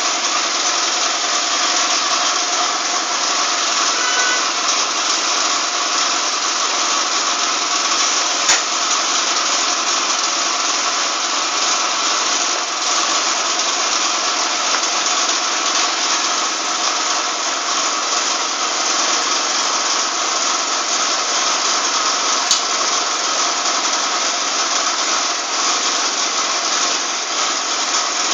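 Tyre bead wire remover machine running steadily, its electric motor and hydraulic pump giving an even mechanical drone. Two sharp clicks come through, about eight seconds in and again about twenty-two seconds in.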